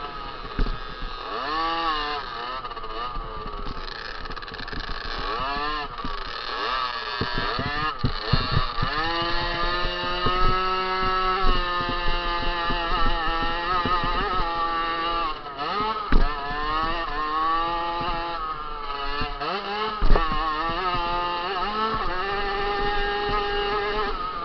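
A 50cc motocross bike's small two-stroke engine racing, its pitch climbing and dropping again and again as the throttle is opened and closed. Two sharp thumps come through about two-thirds of the way in and near the last quarter.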